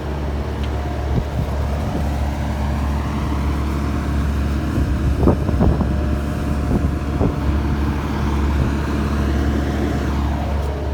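Steady low drone of a motor vehicle running, with a few light knocks around the middle.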